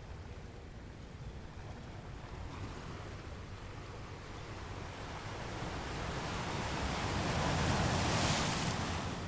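Ocean surf: a steady wash of waves, with one wave building and breaking loudest about eight seconds in, then receding.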